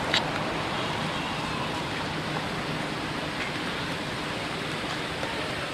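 Steady outdoor background noise, an even hiss with no clear source, with one short sharp sound just after the start.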